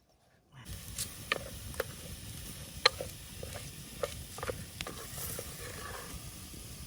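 Crackling and sizzling at the campfire: scattered sharp pops over a steady hiss, starting suddenly under a second in.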